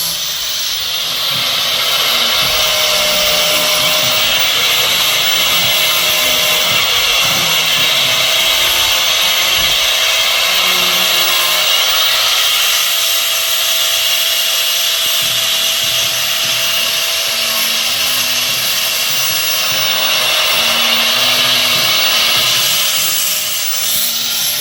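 A small power tool running steadily against bone, cleaning up a deer skull cap, with a faint steady whine under a hissing grind; it winds down near the end.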